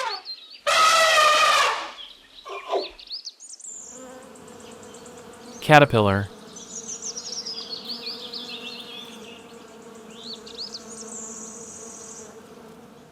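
An elephant trumpeting loudly, with a shorter call at the very start and a longer one about a second in. Then a steady insect buzzing begins about four seconds in, with birds chirping faintly over it.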